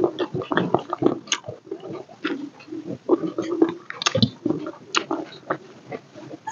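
Close-miked chewing and wet mouth smacks of a person eating rice and chicken curry by hand, mixed with the squelch of fingers kneading rice on a steel plate. The sounds come as a fast, irregular run of short clicks and smacks.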